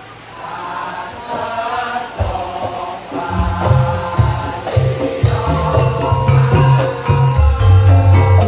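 Javanese gamelan music, live: a singing voice opens the gending, and a little after two seconds in drums and the rest of the ensemble come in, building louder.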